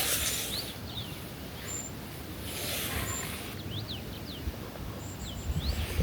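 Small birds calling repeatedly: short high thin notes and quick chirping sweeps in pitch. Two soft swells of rustling noise, one at the start and one about halfway through, run underneath.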